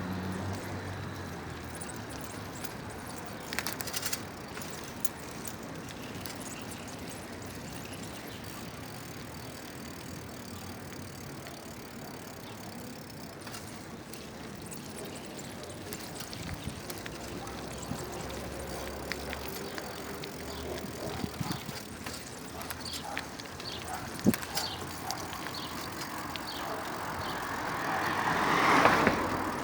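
Street ambience with a steady hiss and scattered light clicks and rattles; near the end a passing vehicle swells up and fades away.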